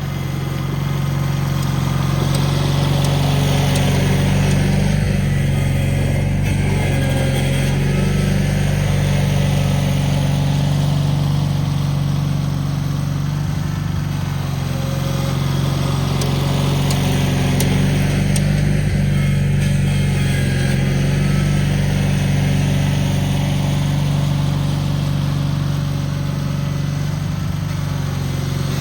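Cub Cadet garden tractor engine running steadily after a cold-weather start, its pitch holding even with only slight swells in loudness.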